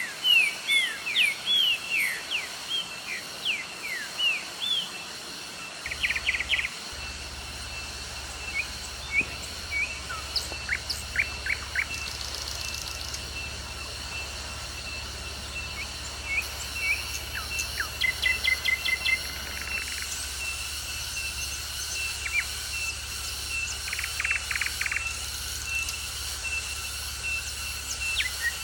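Wild birds calling and singing: quick downward-sweeping chirps at first, then scattered whistles and several rapid trills. Under them runs a thin steady high tone, and a low steady hum comes in about six seconds in.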